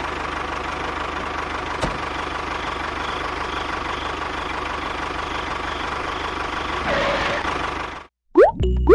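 Engine idling steadily with an even low pulse, rising briefly in a short rev near the end and then cutting off abruptly. Bouncy music with springy boing notes starts right after.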